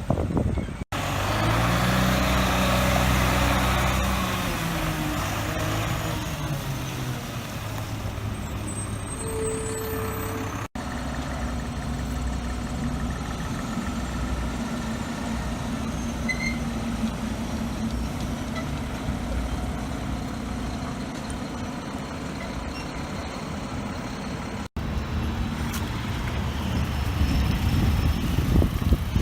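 Heavy truck engines running and moving off, the engine pitch falling about two to four seconds in, across several cut-together clips, with a short single beep about ten seconds in.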